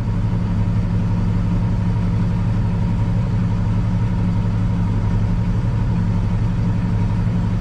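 Peterbilt semi truck's diesel engine running steadily, an even low hum that neither revs up nor drops off.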